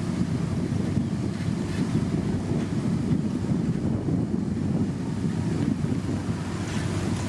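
Heavy diesel engine of a motor grader running under load, a steady deep rumble with a constant low hum, with wind buffeting the microphone.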